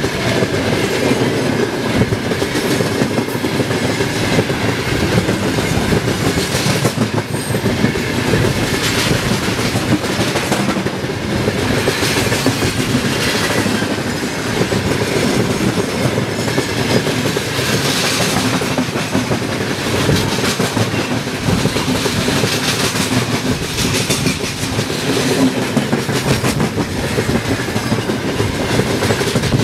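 Freight train hauled by a 2ES10 "Granit" electric locomotive rolling steadily past, its wagons' wheels clattering on the rails with a rhythmic clickety-clack.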